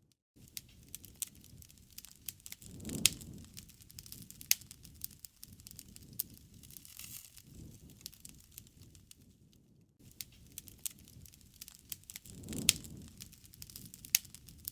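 Wood fire crackling with many sharp pops and snaps. Twice, about three seconds in and again near the end, a louder low rush of flame comes with a strong snap. The sound cuts out briefly about ten seconds in.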